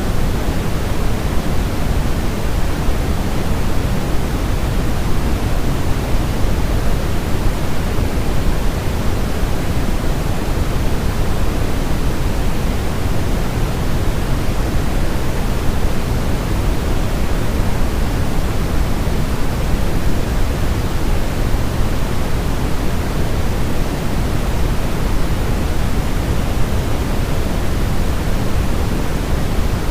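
Steady baby-sleep white noise, a constant rushing hiss weighted toward the low end so it sounds deep rather than bright, unchanging throughout. It is meant to imitate the sound of the womb and mask distracting noises so a fussy infant settles.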